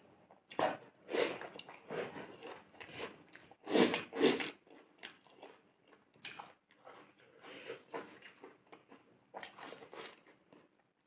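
A person chewing food with the mouth, in irregular wet bites and smacks with some crunches; the loudest pair of bites comes about four seconds in.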